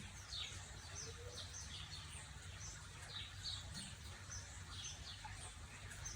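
Faint birds calling: many short, high, downward chirps, a few a second, over a steady low hum.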